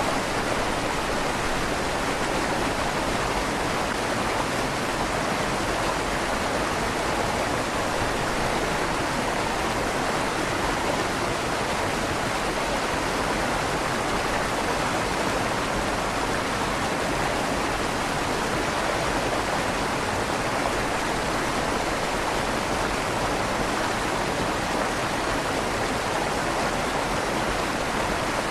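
River water flowing steadily through the tunnel under a stone bridge, a constant even rush with a slight echo off the stone walls.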